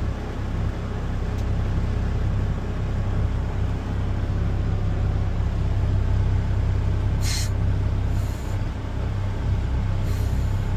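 Front-load garbage truck's diesel engine running steadily, with a short sharp air hiss about seven seconds in and two fainter hisses near the end.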